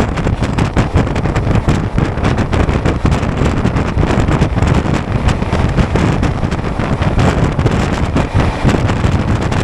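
Passenger train running fast, heard from a window seat in an LHB coach: a steady low rumble of wheels on rail with a dense, continuous rattle, and wind buffeting the microphone.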